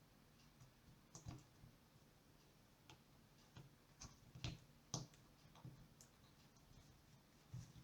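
A few faint, irregular clicks and light taps, scattered and unevenly spaced, with no steady sound under them.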